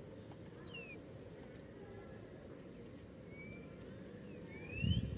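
Wild birds calling over a low steady background: a few quick falling chirps, then a thin whistle and a rising chirp. Near the end a louder low rumbling starts up.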